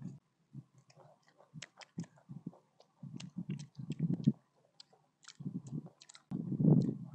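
Close-up eating sounds through a clip-on microphone: irregular wet clicks and chewing as small pieces of food are bitten and chewed. A louder, longer low mouth sound comes near the end.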